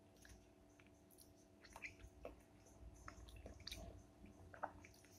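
Faint wet chewing of soft, ripe papaya: small squishes and mouth clicks, busiest from about two seconds in. A faint steady hum runs underneath.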